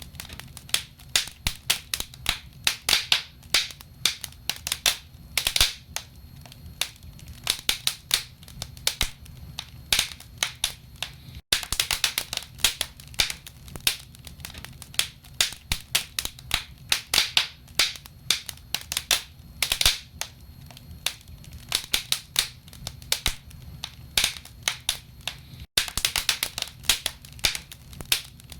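Wood fire burning in a fireplace: logs crackling with dense, irregular pops and snaps, several a second, over a low steady rumble.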